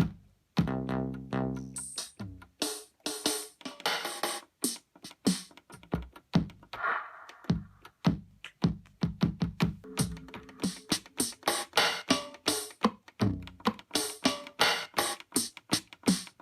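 Roland R8 drum machine playing TR-909 drum sounds from its Dance card, one hit after another in an uneven string. There are low kick-drum hits, one with a long pitched decay near the start, mixed with bright, hissy hits.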